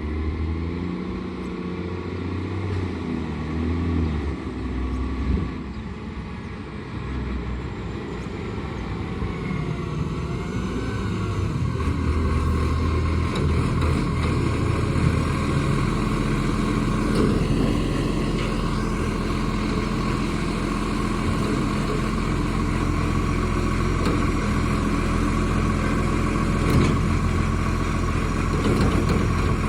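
Garbage truck's engine running with a heavy exhaust leak. Its note rises and falls over the first dozen seconds, then holds steady with a deep rumble.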